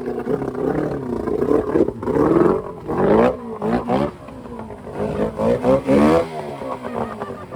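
V4 boat engine being revved up and down several times, its pitch rising and falling, then settling back toward idle near the end.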